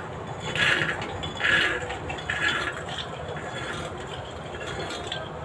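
Soaked green peas being tipped and scraped into a pressure cooker: three short scraping rattles, then fainter ones.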